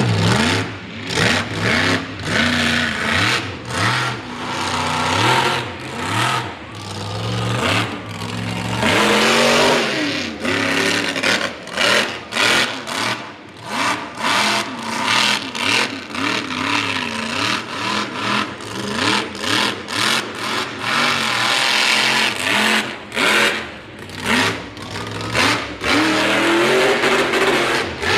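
Mega truck's big engine revving hard over and over, pitch climbing and falling, in quick choppy bursts through most of the stretch.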